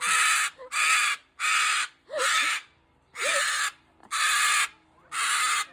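A parrot screaming: seven loud, harsh squawks of about half a second each, repeated roughly once a second.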